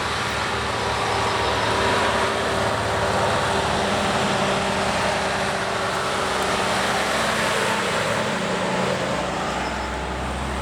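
Vintage Krupp truck engine running steadily, a low engine drone under broad engine and road noise.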